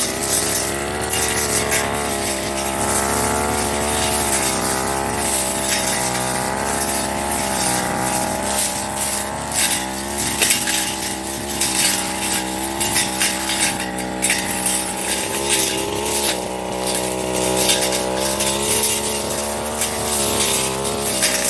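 Firman 30cc brush cutter with a metal blade running at cutting speed, its engine pitch wavering up and down with the throttle, with frequent clicks and crackles of the blade striking grass and stems.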